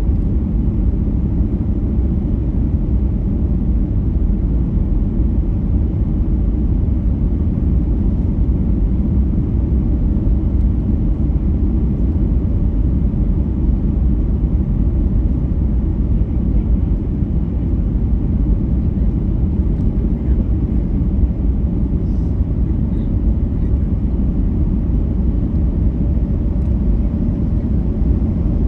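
Airliner cabin noise heard from inside the plane: a steady low rumble of jet engines and airflow, with no sudden changes.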